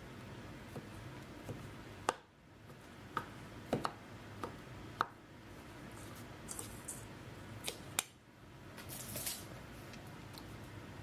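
Scattered light clicks and taps of kitchen utensils and food being handled while preparing cookie dough, over a faint steady room hum.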